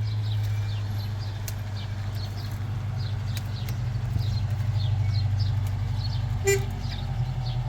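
A steady, low engine hum runs throughout. Birds chirp repeatedly over it in short, falling notes, and there is a single sharp knock about six and a half seconds in.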